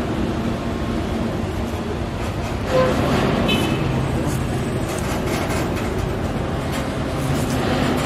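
Container freight train's flat wagons rolling past: a steady rumble and clatter of steel wheels on the rails, with a brief higher tone about three seconds in.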